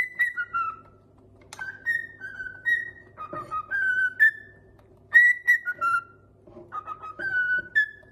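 Pet parrot whistling a short tune: phrases of clear, steady notes that step down in pitch, repeated several times with brief pauses between.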